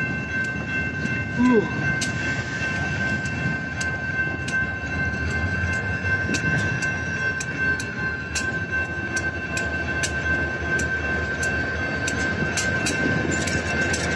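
Freight train cars rolling past at a grade crossing: a steady rumble with the irregular clicking of wheels over rail joints, and a steady ringing crossing bell. A brief rising squeal about a second and a half in.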